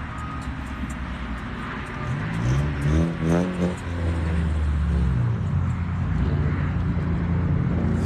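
Car engine revving up once about two to three seconds in, then settling to a steady idle.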